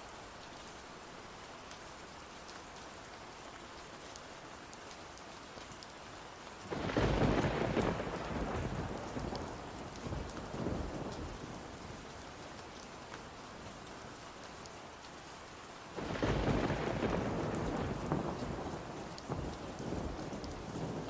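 Steady rain with two rolls of thunder, one about a third of the way in and one about three quarters in; each breaks in suddenly and rumbles away over several seconds.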